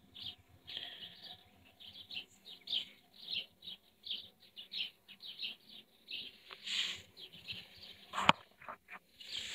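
Small birds chirping in quick, short, repeated calls, with a single sharp knock about eight seconds in.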